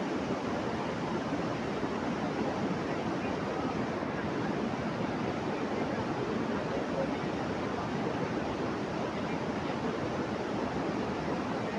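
Steady rushing water, like a rain-swollen river or stream, with no change throughout.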